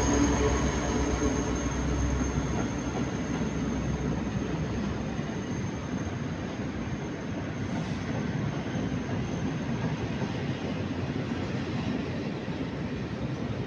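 Diesel locomotive passing, its engine's low drone fading after the first two or three seconds. A long freight train of open box wagons follows, rolling past with a steady rumble of wheels on rail. A thin high whine runs over the first half and fades about eight seconds in.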